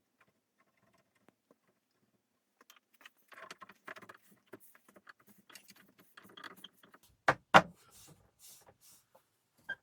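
Workshop handling sounds: a run of small clicks and clinks, then two sharp knocks in quick succession.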